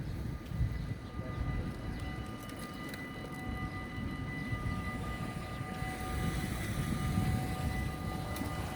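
Dutch level-crossing warning bells ringing steadily, several bells joining in one after another, over a low rumble.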